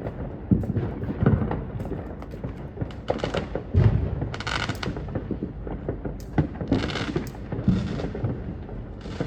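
Fireworks going off: scattered pops and cracks with several short hissing bursts, and a louder bang about four seconds in.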